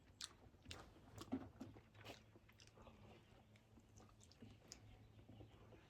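Faint mouth sounds of someone chewing a mouthful of smoked, cured pig's-head meat: soft, scattered clicks and smacks.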